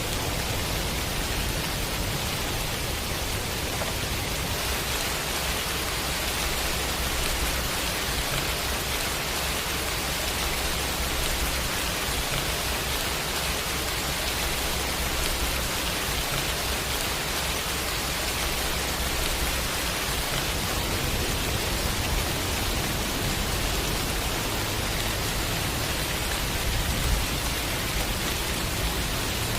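Steady rain, an even hiss, over a low rumble that swells and eases.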